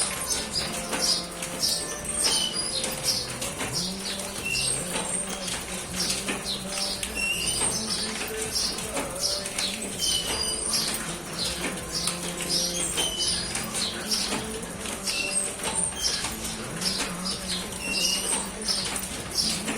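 Birds chirping: many short, high calls in quick succession, over a low steady tone.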